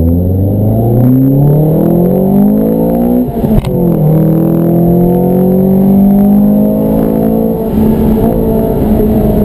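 Ford Fiesta ST's four-cylinder engine, Mountune MR200-tuned, pulling hard under acceleration from inside the cabin, its pitch rising. About three and a half seconds in, the pitch drops sharply with a brief dip in loudness as it shifts up a gear, then rises again more slowly. Near the end it dips briefly, then holds a steady note.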